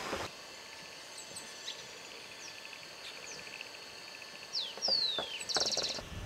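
Forest birds calling: scattered high chirps, a fast even trill in the middle, then two quick falling whistles and a short harsh buzzy call near the end.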